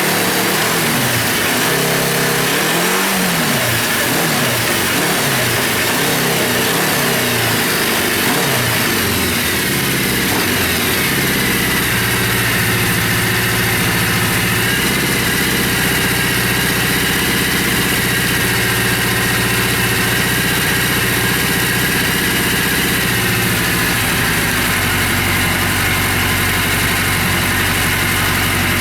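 Suzuki GS750E's air-cooled inline-four engine running. It is revved with throttle blips for the first ten seconds or so, then settles to a steady idle.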